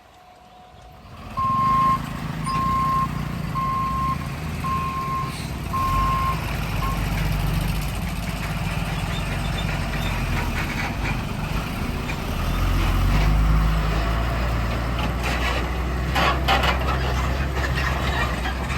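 Five short electronic beeps at one pitch, about one a second, over the steady low rumble of road vehicle engines running at a level crossing; the engine rumble grows heavier about two thirds of the way through.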